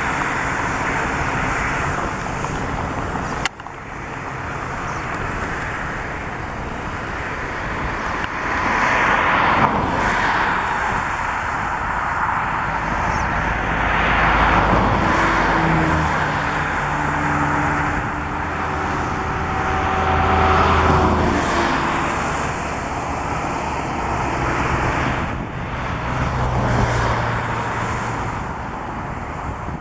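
Engine and road noise outdoors, with motor vehicles passing and an engine hum that rises and falls through the middle; a sudden break about three and a half seconds in.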